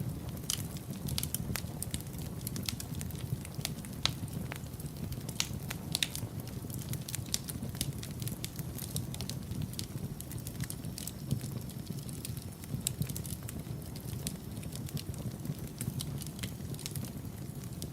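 Wood fire burning in a fireplace: a steady low rumble of flames with irregular sharp crackles and pops, thickest in the first few seconds.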